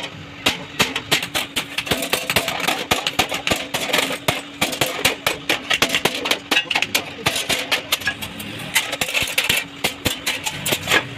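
Metalworking on a sheet-metal stove: a dense, irregular run of sharp taps and clicks, several a second, over a steady low hum.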